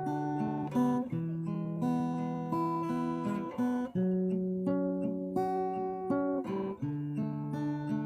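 Music on acoustic guitar, strummed chords held and changing about once a second.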